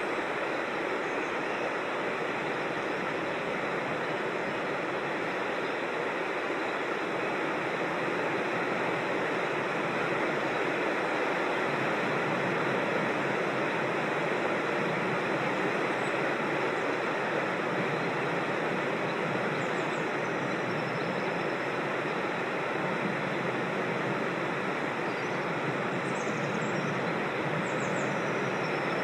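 Creek water rushing steadily over rocks in small cascades, an even rush. A few faint high bird chirps come through it, mostly near the end.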